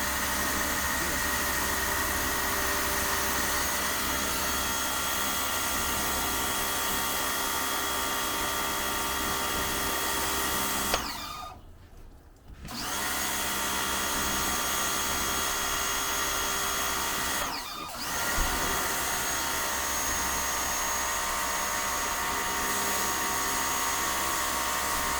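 240 V Makita electric pressure washer running, its motor and pump whining steadily under the hiss of the high-pressure spray. It cuts out for under two seconds about eleven seconds in and again briefly near eighteen seconds, then starts up again, as the pump stops when the trigger is released.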